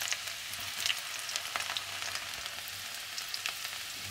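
Cumin seeds and chopped garlic sizzling in hot mustard oil in an iron kadhai: a steady hiss with scattered small crackles.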